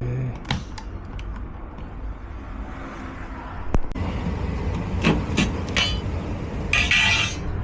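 Steady low rumble of a vehicle, with scattered clicks and rattles, a sharp click a little under four seconds in, and a short burst of hissing noise near the end.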